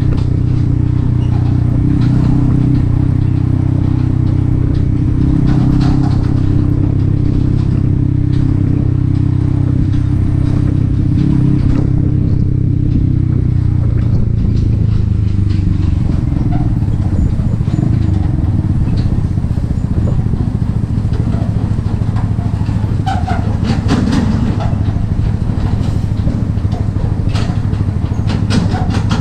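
Yamaha XSR 155's single-cylinder engine, breathing through an aftermarket M4 exhaust, running steadily under way. About halfway through, the steady note gives way to a lower, less even one.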